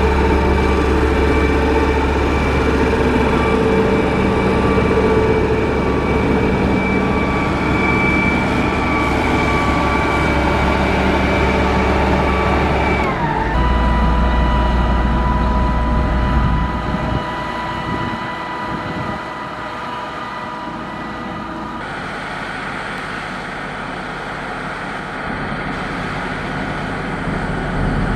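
Diesel engine of a heavy road-construction machine running steadily under load. About halfway through the engine note drops sharply, and the sound gets quieter and changes character a few seconds later.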